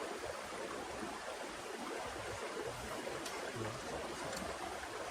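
Rain falling steadily, an even rushing hiss with a few faint ticks.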